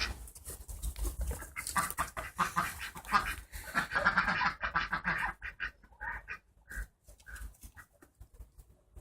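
A duck and a dog scuffling together, with short duck calls breaking in now and then, thinning out in the second half.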